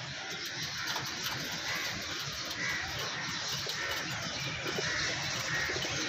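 Birds calling: a short call repeated roughly once a second over a steady background hiss.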